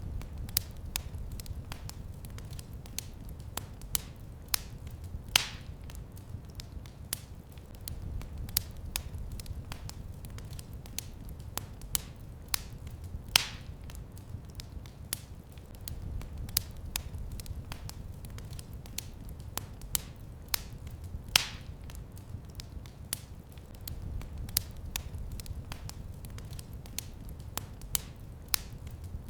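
Wood fire in a fireplace crackling, with many small snaps and a louder pop about every eight seconds over a low rumble from the flames.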